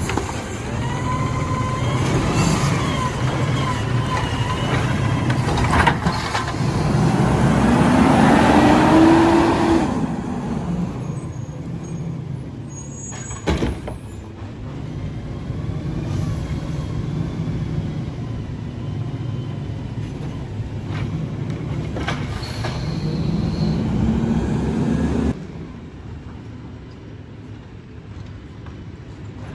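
McNeilus Autoreach side-loading garbage truck running, its engine revving up twice with a rising pitch, with a few sharp clunks and hissing; the sound drops off suddenly near the end.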